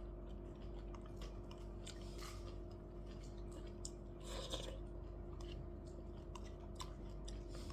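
Someone chewing food close to the microphone, with scattered small clicks and crunches over a steady background hum.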